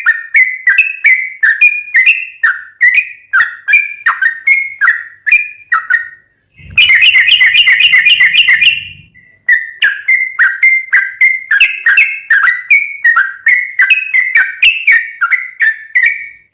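Yellow-vented bulbul (trucukan) calling loudly in short, falling chirps, about two a second. A quick chattering run of notes comes in the middle.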